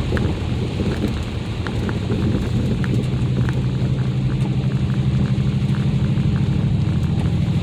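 Mercedes ML SUV driving on an icy road: a continuous low rumble of engine and tyre noise, with a steady low drone settling in about two and a half seconds in and scattered faint ticks.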